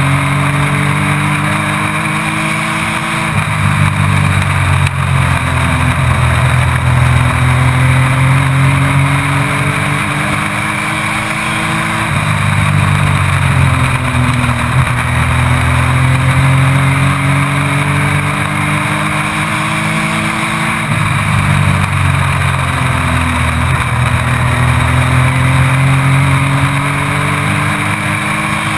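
Race truck engine heard from inside the cab at racing speed. Its pitch climbs steadily for several seconds, then drops quickly as the driver lifts, three times over: on the gas down the straights, off for the turns.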